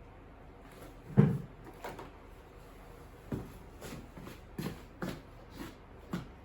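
Old picture frames being handled and set down: a series of hard knocks and clunks, the loudest about a second in, then about six lighter ones.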